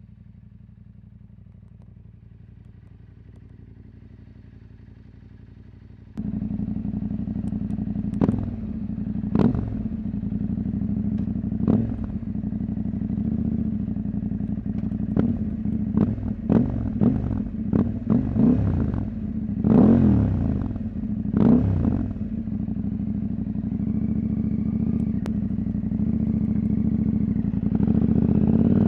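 Husqvarna Norden 901 with the catalytic converter removed, its 889 cc parallel-twin engine running quietly and evenly. About six seconds in it suddenly gets much louder, then gives a string of short revs that rise and fall. Near the end it climbs steadily in pitch as it accelerates.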